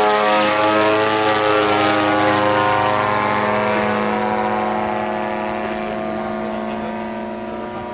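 Radio-controlled model airplane's engine and propeller running steadily as the plane flies past, its pitch dropping slightly and the sound slowly fading as it moves away.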